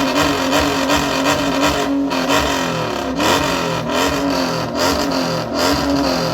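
Car engine revved repeatedly, its pitch rising and falling over and over, with a few short sharp bangs in between.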